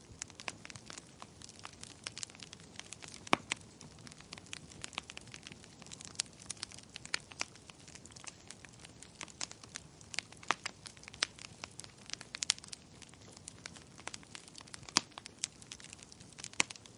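Wood fire crackling: irregular sharp pops and snaps over a low steady hiss, with a few louder pops, one about three seconds in and one near the end.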